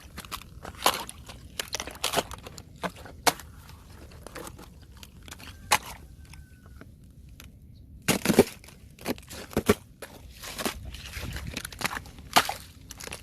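Thin fresh ice cracking and crunching in scattered sharp snaps. It goes quieter for a few seconds, then a cluster of louder cracks comes about eight seconds in.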